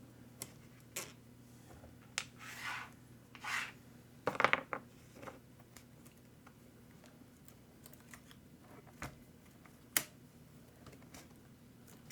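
Small parts and hand tools handled during RC truck repair: scattered sharp clicks, a brief clatter about four seconds in, and a few short scraping sounds, over a steady low hum.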